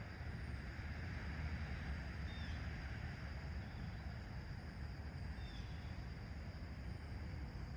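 A steady low outdoor rumble with a few faint, short bird chirps scattered through it, about half a dozen in all.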